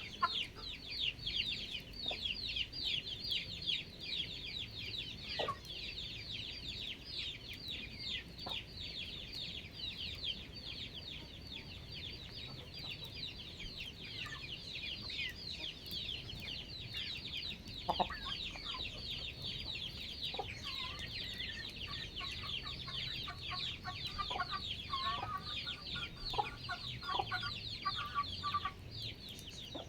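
Chickens calling: a constant overlapping chorus of high, short chirping calls, several a second, joined by scattered lower clucking notes in the second half.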